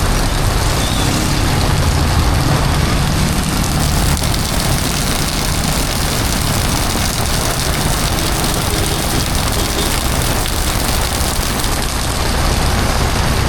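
Heavy rain falling with a steady hiss, over the low rumble of vehicle engines in street traffic.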